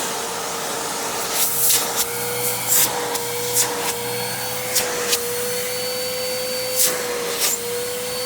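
Simplicity Symmetry Deluxe upright vacuum's 12-amp single-stage motor running in tool mode with the brush roll switched off, a steady whine over a rush of air. Several brief, louder surges of air noise come and go irregularly through it.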